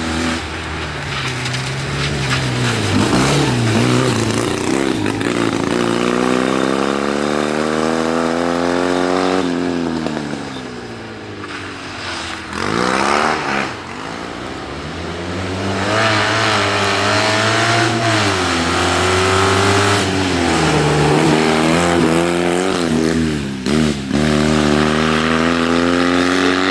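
Fiat 126p rally car's air-cooled two-cylinder engine revving hard, its pitch climbing as it accelerates and dropping back at each gear change or corner. It goes quieter for a moment about a third of the way in, then swells up and falls away sharply as it passes close, before running at sustained high revs again.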